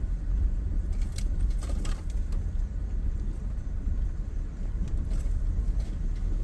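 Car driving on a rough dirt road, heard from inside: a steady low rumble with light rattles and clicks.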